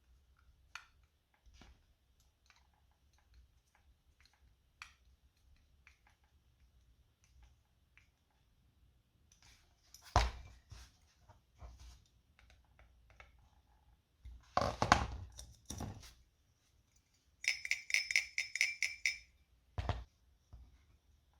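Small metal parts and tools being handled on a workbench: scattered light clicks and clinks, a sharp knock about halfway through, a cluster of knocks a little later, then a quick rattling run of metallic taps and a final thump near the end.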